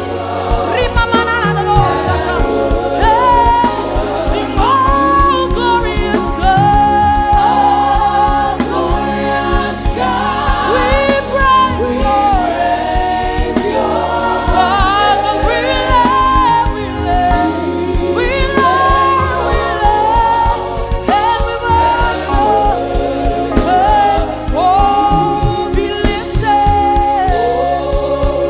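Live gospel worship music: singing with a band playing steady chords and a regular beat.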